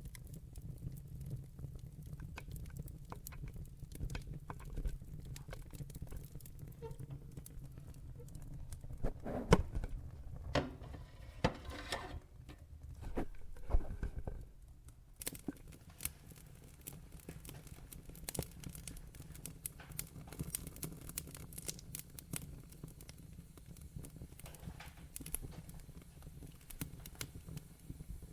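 Wood fire in a fireplace crackling: many sharp, irregular pops and snaps over a low steady rumble of the flames. A busier run of louder pops comes about a third of the way through.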